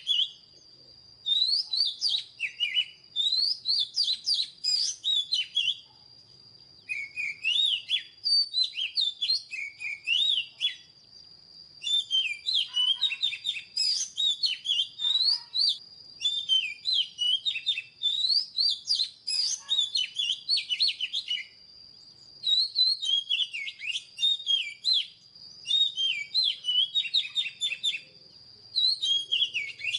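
Oriental magpie-robin singing: rapid, varied whistled phrases in bursts of a few seconds with short pauses between, over a thin steady high-pitched tone.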